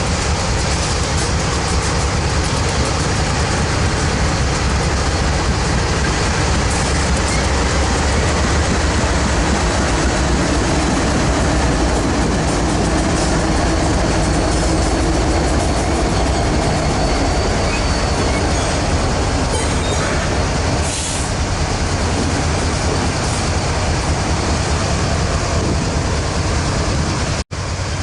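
BNSF diesel locomotives of a light-engine power move passing close by: a steady, loud diesel engine rumble mixed with rolling wheel and rail noise. The sound cuts out for an instant near the end.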